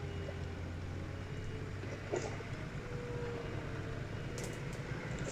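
Skid steer engine idling with a steady low rumble, with a few light knocks about two seconds in and again near the end.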